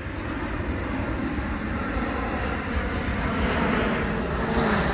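Boeing 787 Dreamliner jet airliner passing close by, its engine roar growing steadily louder.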